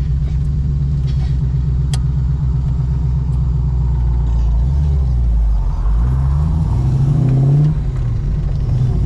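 Holden Commodore engine running under way on a freshly rebuilt motor being run in. It pulls steadily, eases off briefly, then the revs climb for about two seconds and drop sharply near the end at a gear change.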